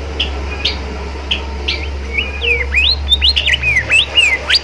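Bimoli songbird singing: a few sharp separate chirps, then a fast run of rising and falling whistled notes about halfway through, over a steady low hum.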